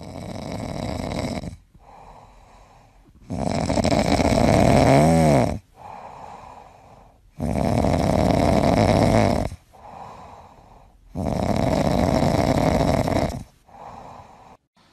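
A sleeping cat snoring: four long, loud snores about every four seconds, each followed by a quieter breath.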